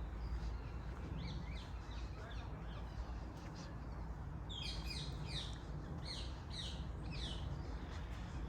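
A songbird singing a run of short, quick, falling high notes, densest and loudest in the second half, over a steady low rumble.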